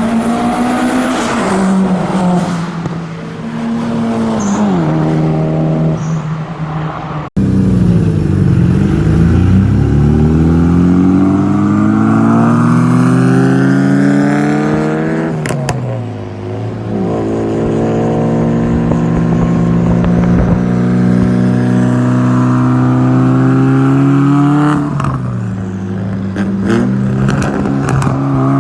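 Mitsubishi Lancer Evolution's turbocharged inline-four engine under hard acceleration, its pitch climbing through each gear and dropping at every shift, in clips cut together with an abrupt break about seven seconds in. A few sharp cracks come near the end.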